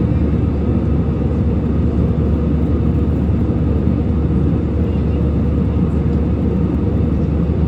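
Steady engine drone and air rush inside an airliner cabin in flight: a low, even hum with a constant hiss.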